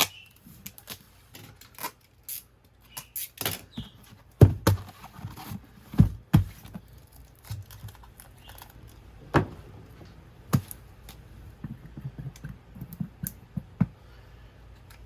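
Hands handling sneakers and their packaging: irregular taps, knocks and rustles, with a handful of louder thumps.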